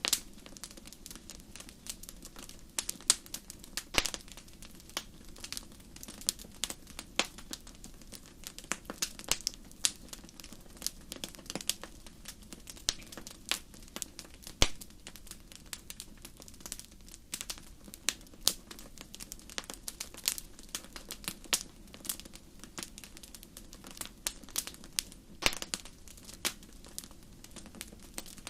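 Wood fire burning in a fireplace, crackling with irregular sharp pops over a low steady rush of the flames.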